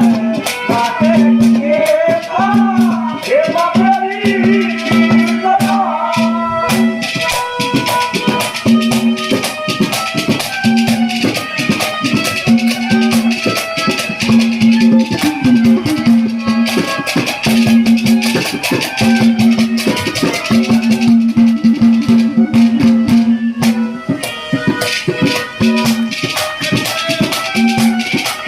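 Live Haryanvi ragni music: fast, dense percussion with a rattling, jingling sound. Over it runs a melody and a held low note that keeps breaking off and coming back. A gliding, voice-like melodic line stands out in the first several seconds.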